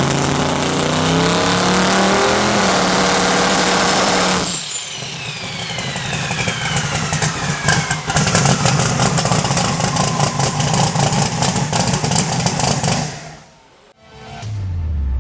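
Proline twin-turbo 520 Hemi race engine running hard, then the throttle closes about four and a half seconds in and the turbochargers' whine falls steadily in pitch as they spool down over a choppy idle. The sound dies away near the end.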